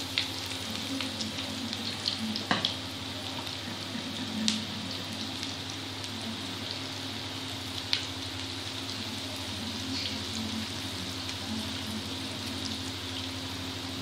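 Besan-coated okra pieces deep-frying in hot oil, a steady sizzle with a few sharp clicks and pops.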